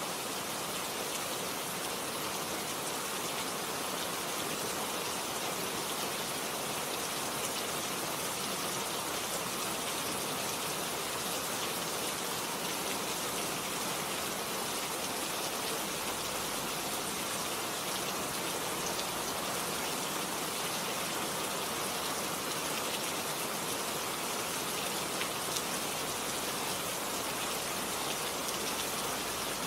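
Steady rain falling on garden plants: an even hiss with scattered ticks of individual drops.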